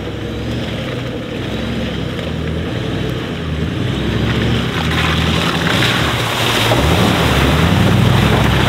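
Toyota LandCruiser's engine working under load as it crawls up a muddy, rutted track, the revs rising and falling and the sound growing steadily louder as it approaches.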